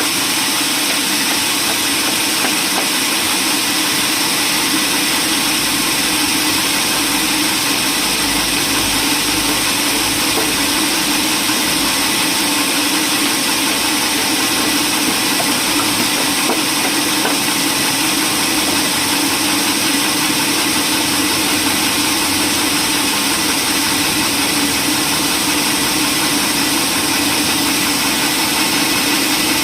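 Steady, even running noise of sawmill machinery, with a constant hum and no change in load.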